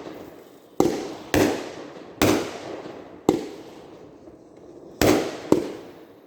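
Consumer aerial fireworks going off: six loud bangs at irregular gaps of about half a second to a second and a half, each trailing off over about a second.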